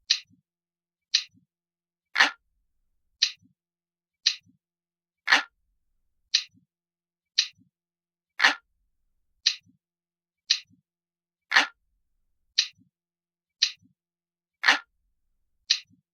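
Clock ticking steadily, about one tick a second, with every third tick louder and fuller than the two between.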